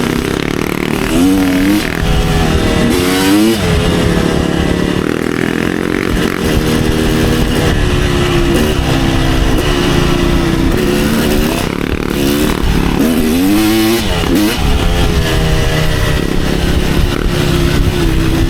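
Kawasaki KX250 dirt bike engine revving hard through the gears on a trail ride. The pitch climbs and drops over and over, with sharp rev climbs about a second in, around three seconds, and again around thirteen to fourteen seconds.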